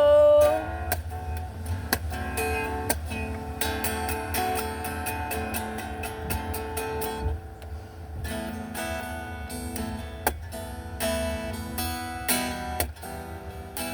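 Acoustic guitar playing an instrumental passage: picked notes with occasional sharp strums, no singing.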